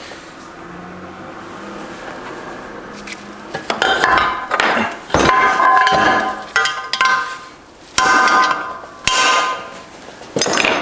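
Metal tools and parts clanking against a transmission case, in five or six bouts of sharp knocks, each leaving a short metallic ring. The first few seconds are quieter.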